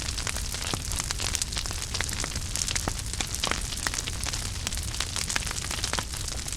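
Wood fire burning in a fireplace: a steady low rumble and hiss, with frequent irregular sharp crackles and pops.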